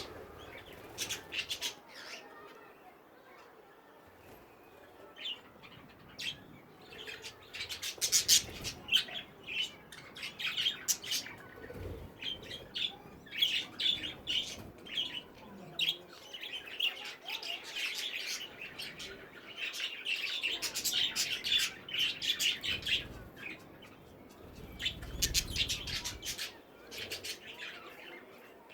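Budgerigars chattering and chirping in an aviary: many short, high warbling chirps, sparse at first and then busier and near-continuous from several seconds in.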